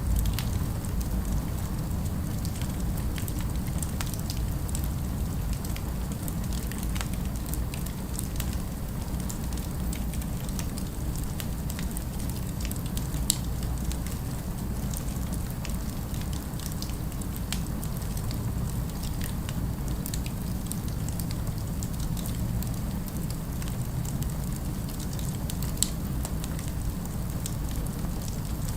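Fireplace crackling over a steady low rumble, with scattered sharp pops, two of them louder, about halfway through and near the end.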